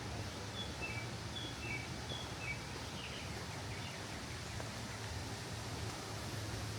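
A small bird calling a quick phrase of three descending high notes, three times in a row in the first few seconds, then a few fainter calls. Under it, a steady outdoor hiss with a low hum.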